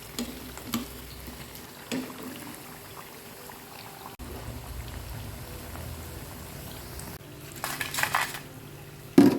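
Bakwan fritters bubbling and sizzling in hot frying oil, with a few knocks of a metal utensil against the pan, a burst of clattering about 8 seconds in and a sharp knock near the end.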